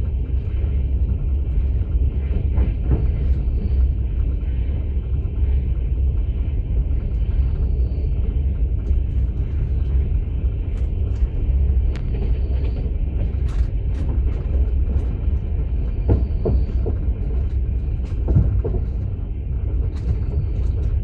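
Passenger train running, heard from inside a platzkart sleeper carriage: a steady low rumble, with scattered faint clicks and knocks.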